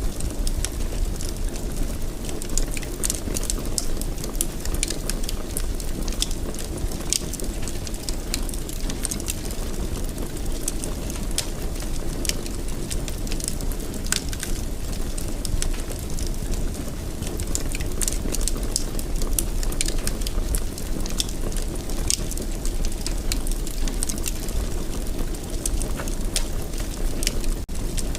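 Wood fire burning steadily in a fireplace, a low rushing rumble with frequent small crackles and pops scattered throughout.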